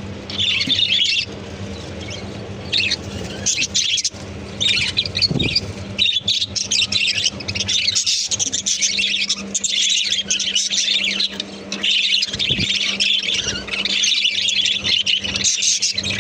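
A flock of budgerigars chattering and squawking in many short, rapid, overlapping calls. The chatter comes in patches at first and runs almost without pause from about six seconds in, over a steady low hum.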